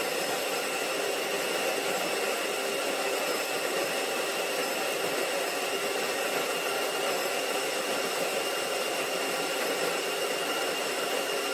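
Tuni G1 electric conical burr coffee grinder running, grinding coffee beans: a steady motor whine with a high held tone over it.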